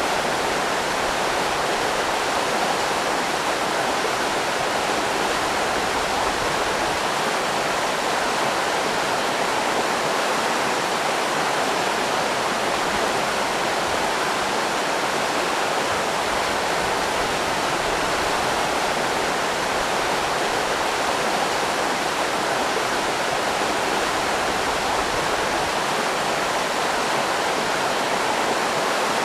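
River rapids rushing, a steady, even roar of fast-flowing water.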